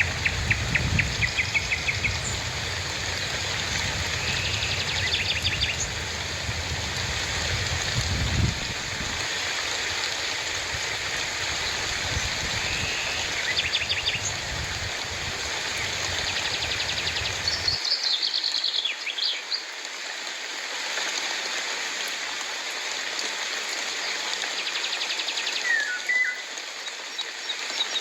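Steady rainfall hissing, with birds calling through it in repeated quick chirping trills. A low rumble under the rain stops abruptly about two-thirds of the way through.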